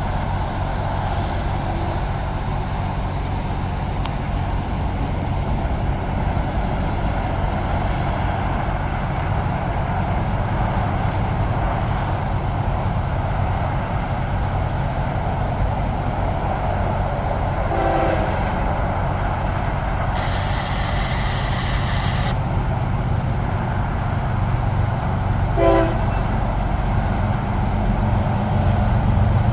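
Diesel locomotive of a freight train rumbling steadily as it approaches, getting louder near the end. Two short horn toots come, one about two-thirds of the way through and another a little later, with a brief high hiss between them.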